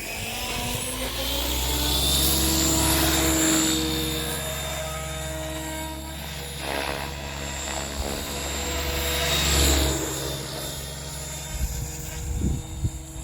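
Electric XL Power 550 RC helicopter flying, its motor and rotor blades giving a steady whine and whir that grows louder and fades again as it manoeuvres, loudest about three seconds and ten seconds in.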